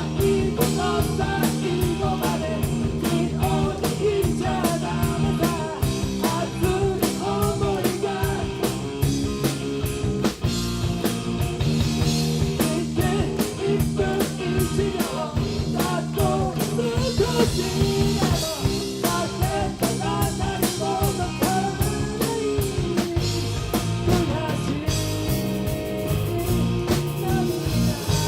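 Live rock band playing: a drum kit beating steadily under bass and electric guitar, with a wavering lead line above.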